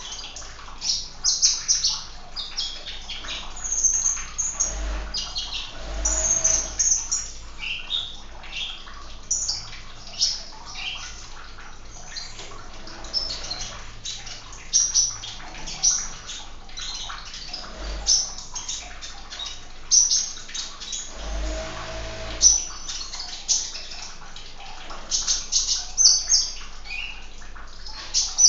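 Small songbirds chirping and twittering in many short, high, rapid calls over a faint steady trickle of water. A couple of brief low rumbling bumps come about five seconds in and again about twenty-one seconds in.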